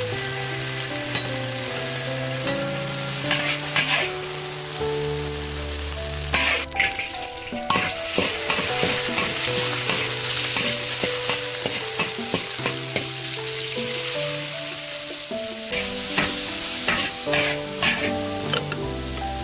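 Food sizzling and frying in a wok while a spatula stirs and clacks against the pan. The sizzle grows much louder for several seconds midway. A melodic background tune plays throughout.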